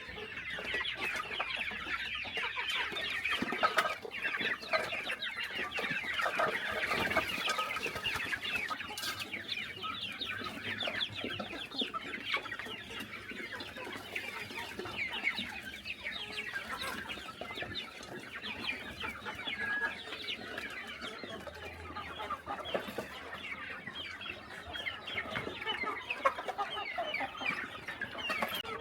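A flock of chickens calling continuously: many overlapping short clucks and cheeps, thick and unbroken throughout.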